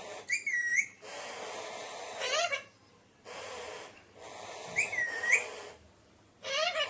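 Alexandrine parakeet calling: short, bending whistled notes alternate with longer harsh, raspy screeches of about a second each, several times over.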